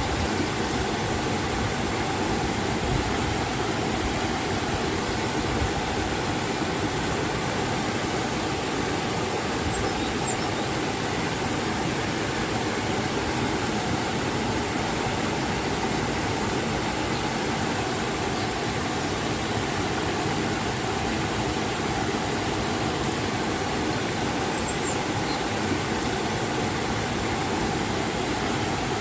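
River water rushing over a waterfall: a steady, unbroken roar of falling and flowing water.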